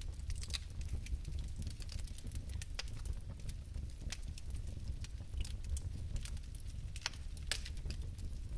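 Fire crackling: irregular sharp pops and clicks over a low, steady rumble of flames.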